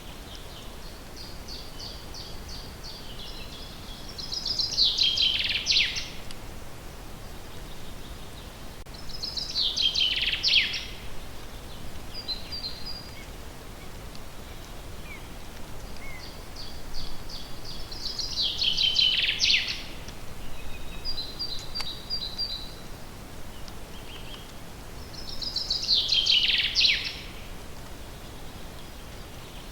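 A songbird singing the same short song four times, roughly every seven or eight seconds. Each song is a quick run of repeated high notes that drops in pitch to a brief ending, with a few shorter, softer notes between songs, over a steady outdoor background hiss.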